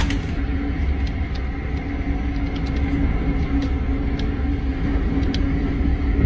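Hurricane-force wind blowing on the microphone: a loud, steady low rumble with a steady low tone through it and scattered sharp ticks.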